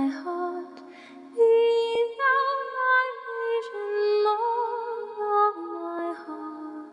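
A cappella vocal harmony: several layered voices, a female voice among them, holding sustained wordless notes with vibrato and moving together from chord to chord.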